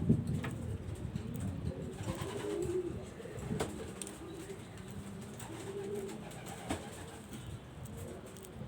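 Pigeons cooing: a run of low, repeated cooing calls, with a few sharp clicks among them.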